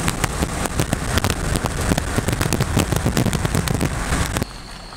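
Rain pattering hard as many close, sharp drop strikes over a low rumble, stopping abruptly about four and a half seconds in.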